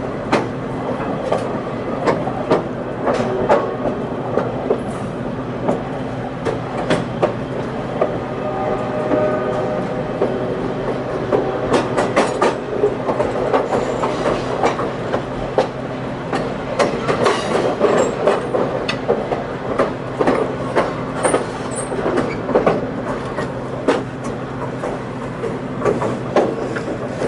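Diesel-hauled passenger train in motion: the wheels clack over rail joints in quick, irregular clicks over a steady low rumble, with a few faint high squeaks in the second half.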